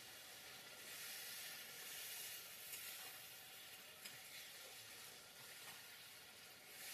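Faint sizzling of an onion and spice masala frying in oil in a metal karahi, stirred with a metal spatula that gives a few light clicks.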